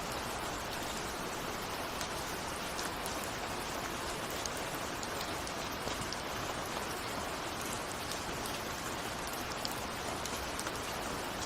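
Steady rain falling, an even hiss with scattered small drop ticks, raindrops hitting a window.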